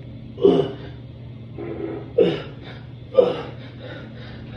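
A man's voice grunting and straining, three short loud bursts that fall in pitch: an acted, mock straining on the toilet. A steady low hum runs underneath.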